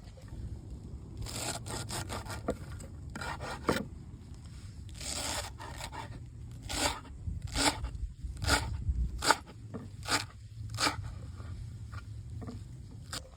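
Rubbing and scraping: a few drawn-out passes, then six sharper strokes a little under a second apart.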